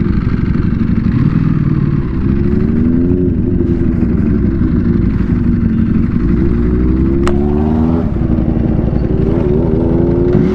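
Sport motorcycle engine pulling up through the revs three times, its pitch rising each time, with a single sharp crack about seven seconds in. Wind buffets the microphone under the engine sound.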